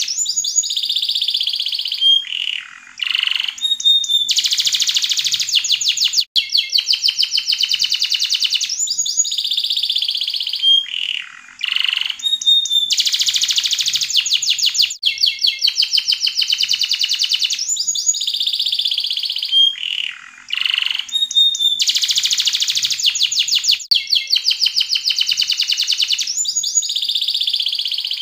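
Yellow domestic canary singing continuously: long, very rapid trills broken by short sweeping whistled notes, with the same song phrase coming round about every nine seconds.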